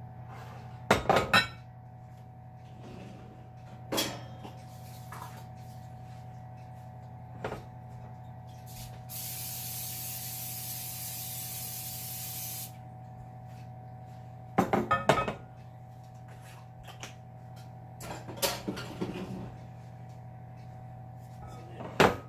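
Aerosol non-stick cooking spray hissing steadily for about three and a half seconds as a casserole dish is greased. Short clattering knocks of dishes and utensils come before and after it.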